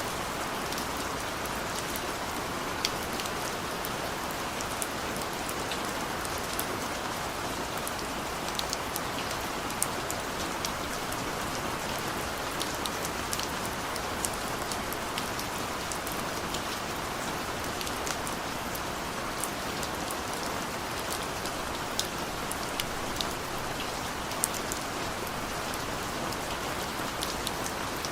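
Steady rain falling, an even hiss with many sharp individual drop hits scattered through it.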